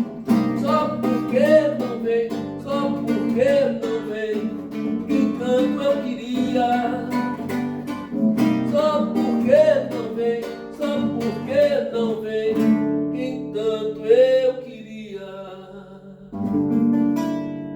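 Acoustic guitar strumming under a lead melody line in the song's instrumental ending, closing on a final chord that rings out and fades near the end.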